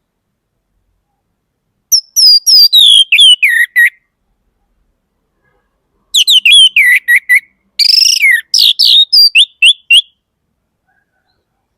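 Orange-headed thrush (anis merah) singing: two loud phrases of quick, clear whistled notes, each note sliding down in pitch. The first phrase lasts about two seconds and the second, after a pause, about four.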